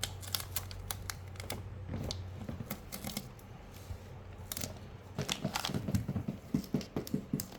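Stickers being peeled from their backing sheet and handled: light crinkling, small tearing sounds and clicks, getting busier in the last couple of seconds.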